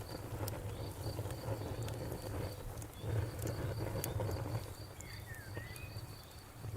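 Campfire crackling, with scattered sharp pops over a low rumble of burning wood. A cricket chirps in a steady pulse about three times a second behind it, and a few short bird chirps come about five seconds in.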